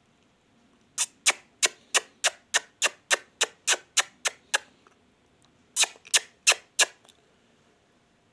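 Ringneck parrot giving a rapid run of short, shrill calls, about three or four a second, then a second shorter run of four after a pause.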